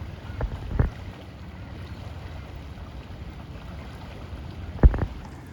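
Steady rushing noise of floodwater and wind buffeting the microphone. There are two sharp knocks, one a little under a second in and a louder one near the end.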